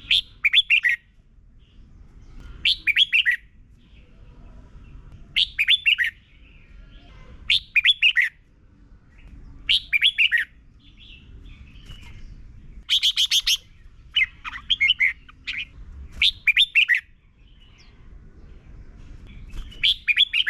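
Red-whiskered bulbul singing short, quick phrases of rapid notes, one phrase roughly every two seconds, about nine in all.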